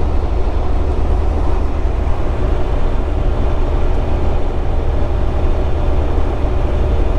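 Semi-truck cab at highway speed: a steady, loud low drone of the engine with road and tyre noise.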